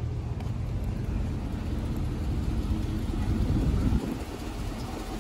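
A vehicle engine running at a low, steady rumble, with a brief dip about four seconds in.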